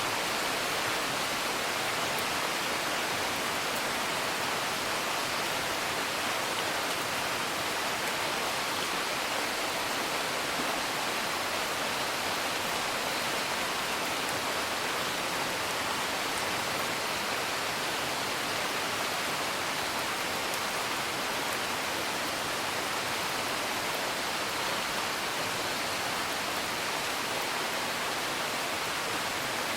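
Steady rain as heard from indoors, an even hiss that doesn't change, with a few faint crackles from a wood fire.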